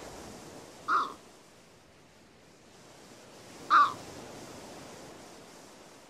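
A bird giving two short calls about three seconds apart, the second the louder, over a steady background hiss.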